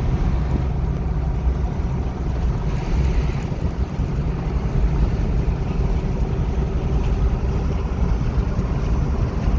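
Steady cabin noise of a car cruising on a highway: a low, even rumble of tyres on the road and the engine running.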